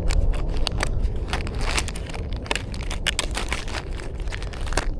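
Crinkling and crackling from close handling of soft-plastic fishing lures, a rapid irregular run of sharp crackles over a heavy low rumble of handling noise on the microphone.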